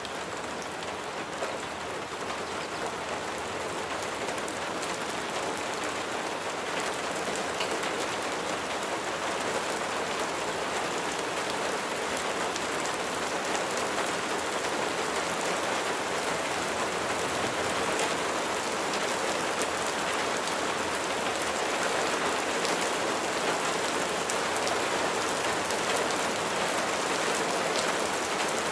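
Steady rain: a dense hiss of raindrops with individual drops ticking through it, growing gradually a little louder.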